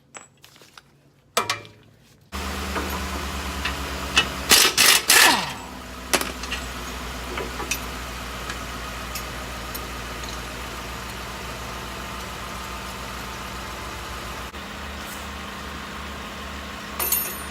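A motor starts abruptly about two seconds in and runs steadily, with several loud knocks about four to five seconds in.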